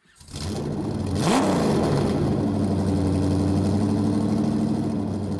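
A car engine running, blipped once about a second in so its pitch rises and drops back, then running steadily.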